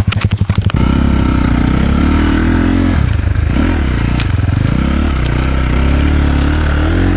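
Enduro motorcycle's single-cylinder engine, loud and close, going from slow separate firing pulses to pulling hard under throttle about a second in. The revs dip and climb again midway, then fall back to low revs right at the end.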